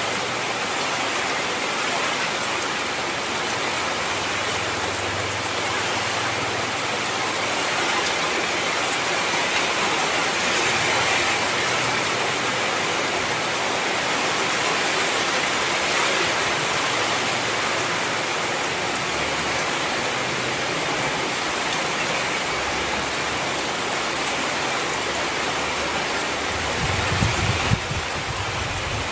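Heavy rain falling in a steady, dense downpour, with a brief low rumble near the end.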